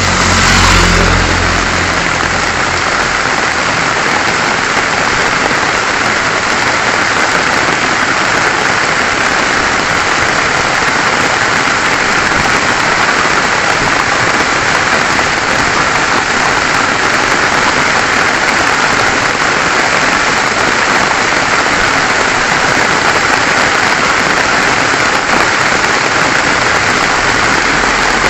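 Steady rain falling, an even hiss that holds without change, with a brief low rumble at the very start.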